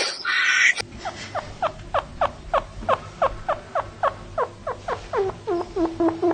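A loud, harsh animal call cuts off abruptly under a second in. Then a chicken calls over and over, each call short and sliding down in pitch, about three to four a second.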